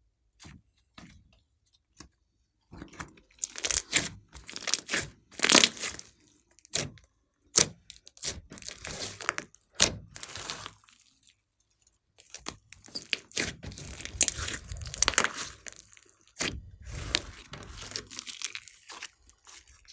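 Slime mixed with clay being squeezed and stretched by hand, giving irregular crackling, popping and squishing sounds in bursts, with a short pause about halfway through.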